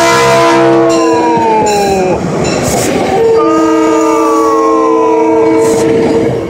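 Metro-North train's horn sounding two long blasts as it passes close by, the pitch dropping during each blast, over the rumble of the passing train.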